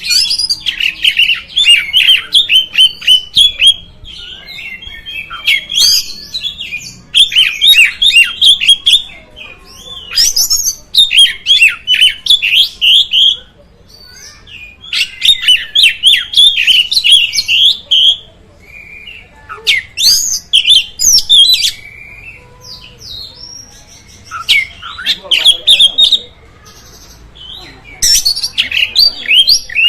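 Oriental magpie-robin (kacer) singing: bursts of rapid, varied chirps and whistles, each phrase one to three seconds long, with short pauses between phrases.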